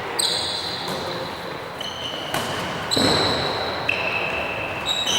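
Athletic shoes squeaking on a sports-hall floor in short, high squeals at shifting pitches, with a few sharp thuds of the tchoukball being thrown, caught or bounced, echoing in the hall.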